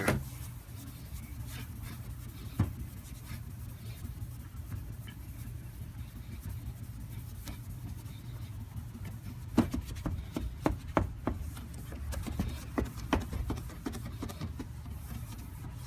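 A cloth sock rubbed back and forth over a plastic car headlight lens with headlight restorer liquid, polishing off the yellowing: soft scuffing with scattered light knocks, over a steady low rumble.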